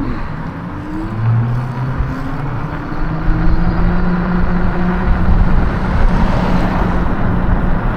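Wind rushing over the microphone on a moving e-bike, with a pitched motor hum that rises slowly in pitch and then holds steady from about three seconds in.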